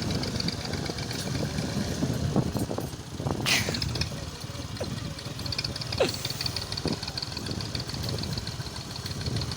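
A vehicle engine running steadily with a low rumble. A sharp hissing burst comes about three and a half seconds in, and a short falling tone around six seconds in.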